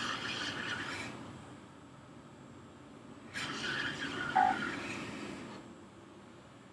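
Hot-air blower running to soften plastic-bonded glue, its air rushing loudly in two surges, from the start to about a second in and again from about three and a half to five and a half seconds. A brief higher tone sounds during the second surge.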